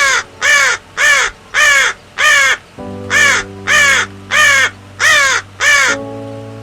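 A large bird giving ten harsh, cawing calls in a steady series, about two a second, each call rising and falling in pitch. Soft piano music plays underneath.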